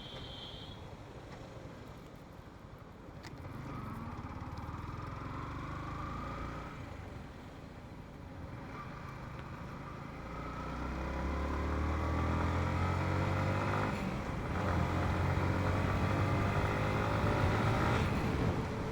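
Motorcycle engine accelerating, its pitch climbing in three long rises as it revs up, over steady wind and road noise.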